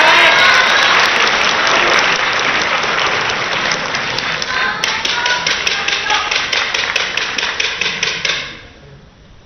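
Spectators cheering and applauding after a point, with a fast, even beat of claps running through it. The noise stops abruptly near the end.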